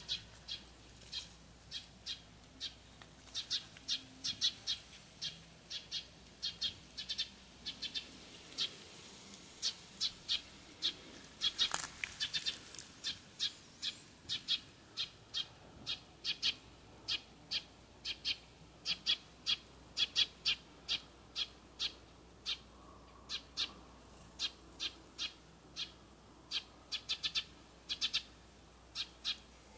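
A small bird calling over and over with short, sharp, high notes, about two a second at an uneven pace and sometimes in quick pairs.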